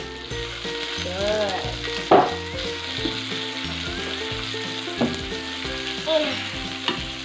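Skinless chicken pieces sizzling in their own rendered fat in a stainless-steel electric skillet, with no added oil, while a metal spatula scrapes and knocks against the pan as the pieces are turned. The loudest knock comes about two seconds in, with smaller ones near five and seven seconds.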